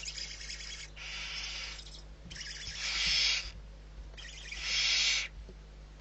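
Barn owl giving a series of harsh, hissing screeches, each about a second long, about four in a row, the last two louder.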